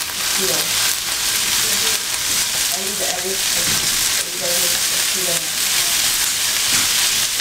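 Yakisoba noodles and vegetables sizzling steadily in a hot frying pan while being stirred and tossed with wooden chopsticks.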